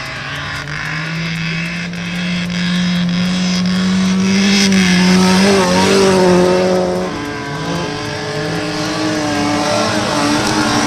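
Stock car engines running hard on a race track, rising in pitch and loudest about five to six seconds in, then dropping back.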